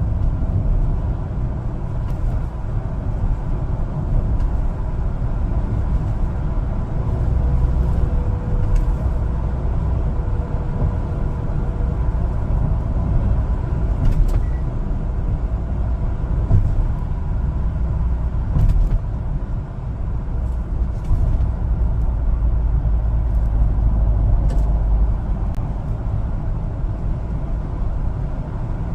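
A 1-ton LPG cargo truck driving on the road: a steady low rumble of engine and road noise, with a few faint clicks now and then.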